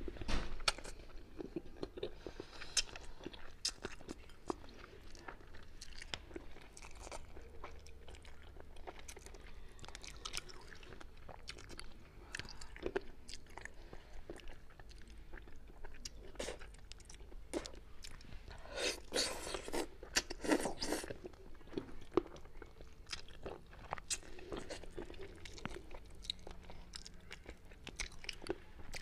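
Close-miked chewing and biting of braised Chinese forest frog (snow clam), with wet smacking and crunchy crackling clicks as the bones and skin are bitten through. The crunching grows louder for a couple of seconds about two-thirds of the way through.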